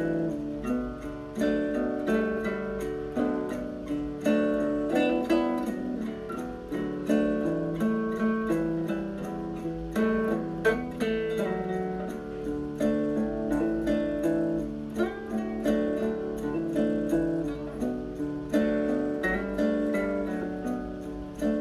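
Background music: acoustic guitar playing a steady plucked and strummed accompaniment.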